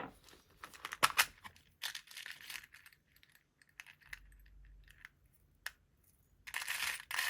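Paper, cardstock and small craft pieces handled on a tabletop: a couple of light clicks about a second in, then bouts of paper rustling, the longest near the end.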